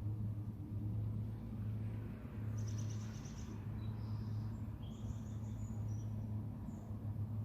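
Evening outdoor ambience: a steady low rumble runs throughout, with several short, high bird chirps and trills over it, the first about three seconds in.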